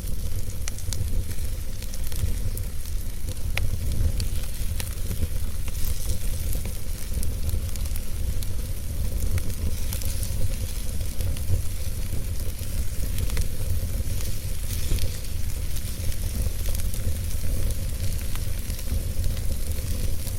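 Wood fire burning in a fireplace: a steady low rumble of flames with a hiss and frequent small, irregular crackles and pops.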